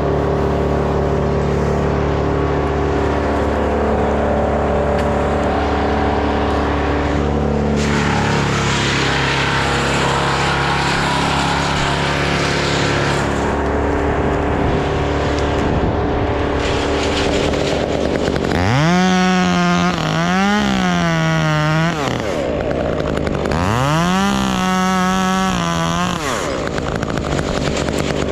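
Stihl MS 201 two-stroke top-handle chainsaw idling, then revved to full throttle twice, about nineteen and twenty-four seconds in, each time for two or three seconds. The pitch climbs steeply, holds high with small dips, and falls back to idle.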